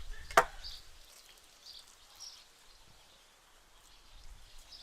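Faint bird chirps scattered over a light outdoor background, with one sharp knock about half a second in.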